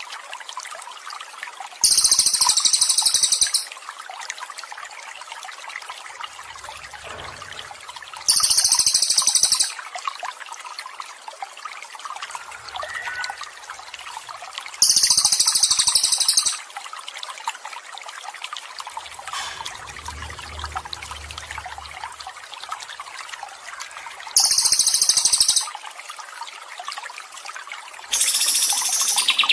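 Steady trickling water, with a songbird's high-pitched rapid trill repeated five times, each phrase lasting about a second and a half.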